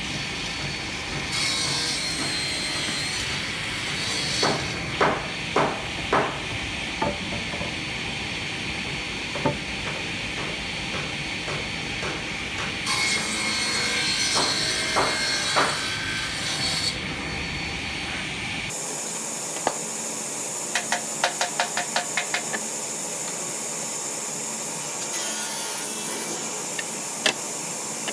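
Hand tools working wood: a steady scraping and rubbing with scattered sharp knocks. After an abrupt change partway through comes a quick run of light taps lasting about a second and a half.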